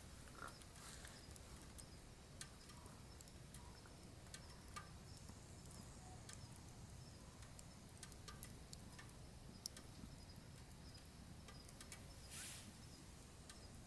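Faint crackling of firewood burning in a wood stove: scattered small pops and ticks at an uneven pace, with a brief soft hiss about twelve seconds in.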